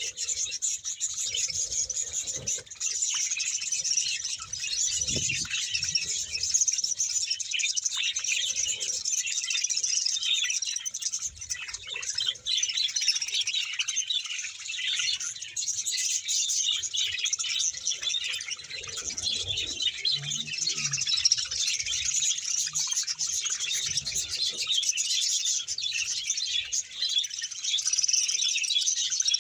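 A large colony of budgerigars chattering and warbling together: a dense, unbroken chorus of many birds at once.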